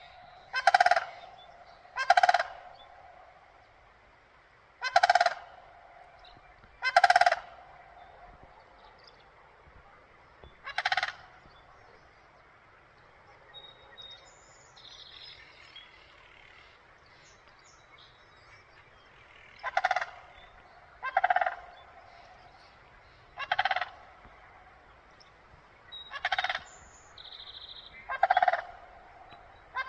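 A crane calling: about eleven loud, short, pitched calls, irregularly spaced, with a pause of several seconds in the middle.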